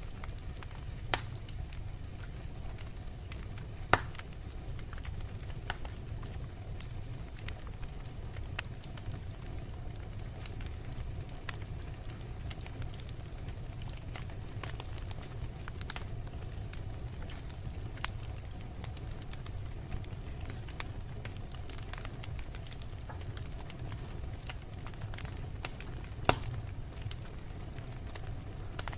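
Wood fire burning in a fireplace: a steady low rumble of flames with frequent sharp crackles and pops from the logs, the loudest pops about 1, 4 and 26 seconds in.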